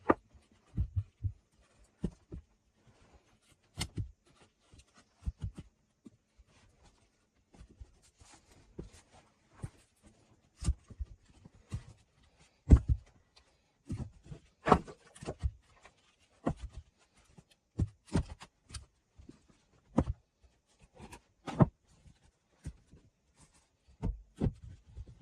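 Irregular wooden knocks and thuds, a couple of dozen of them with short pauses between, as thick round log slices are set down and knocked into place to make a floor. The loudest knock comes a little under halfway through.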